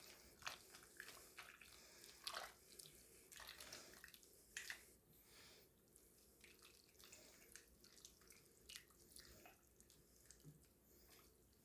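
Faint, irregular wet squelches and light clicks of a spoon stirring egg noodles into cream of chicken soup in a pot, thinning out in the second half.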